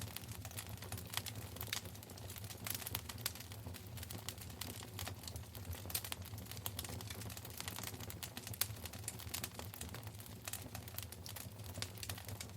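Wood fire crackling in a fireplace: dense, irregular pops and snaps, a few sharper than the rest, over a steady low rumble of the burning fire.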